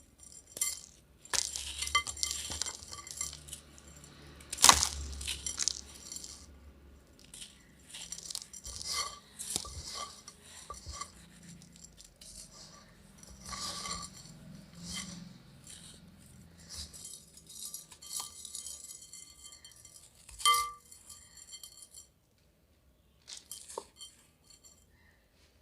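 Crunchy yellow grainy material crunching and clinking against a clay pot as it is worked, in irregular bursts of crackles and clinks. The loudest crunch comes about five seconds in, and the sound dies away near the end with a few last clinks.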